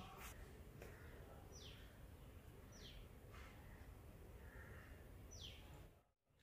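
Near silence: a faint low room hum with a bird's short, high, falling chirp heard three times, before the sound cuts off abruptly near the end.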